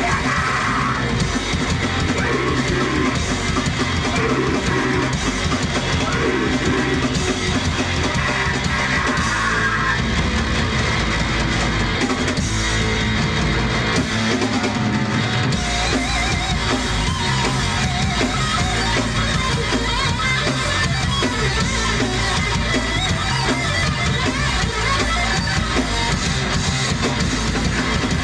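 Live rock band playing a song loudly: electric guitar over a drum kit, at a steady, unbroken level.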